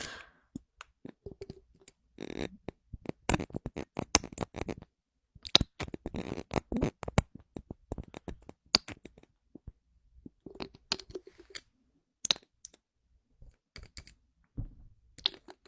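An object handled close to the microphone, making clusters of rapid clicks and crackles in bursts of a second or two, separated by short silences.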